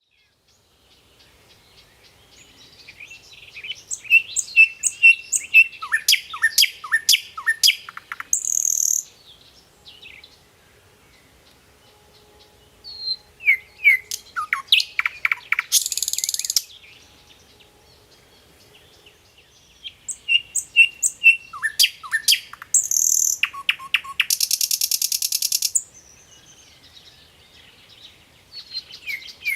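A songbird singing in three bouts a few seconds apart, each a run of quick chirps and downward-slurred notes that ends in a harsh, buzzy trill.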